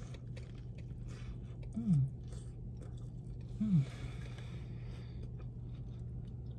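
Close-up chewing of a bite of pizza, with small clicks and wet mouth sounds, over a steady low hum. Twice, about two seconds in and again just before four seconds, the eater gives a short falling hum of enjoyment.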